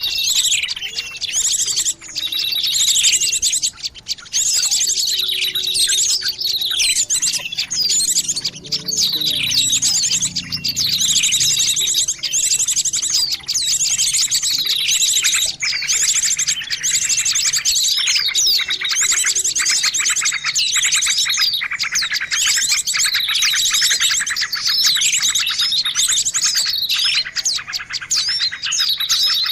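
Bird-lure recording of a noisy chorus of many small birds chirping and calling at once. Rapid downward-sweeping chirps overlap without a break.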